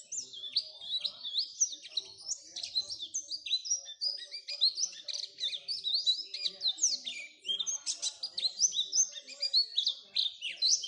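White-eye (pleci) song: a fast, unbroken stream of high, varied chirps, twitters and short sweeping notes.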